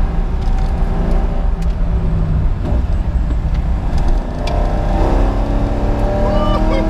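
2003 Corvette C5 Z06's LS6 V8 running hard under load, heard from inside the cabin. A little over four seconds in the sound dips briefly, then the engine note climbs in pitch as it pulls again.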